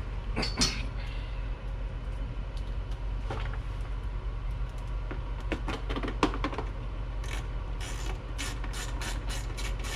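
Scattered clicks and knocks of hand work on motorcycle exhaust parts, turning into a quick run of clicks about three a second over the last few seconds, over a steady low hum.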